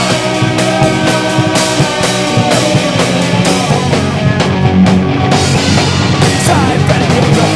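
Rock music with drums and electric guitar, an instrumental passage of a punk-style rock song.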